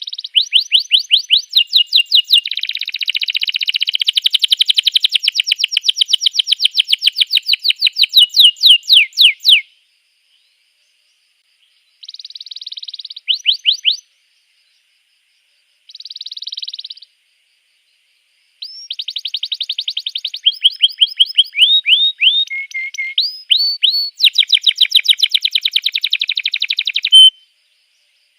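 Domestic canary singing: fast trills of rapidly repeated sweeping notes in several long phrases, broken by pauses of a second or two.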